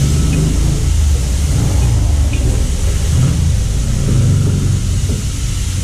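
A steady, loud low engine rumble.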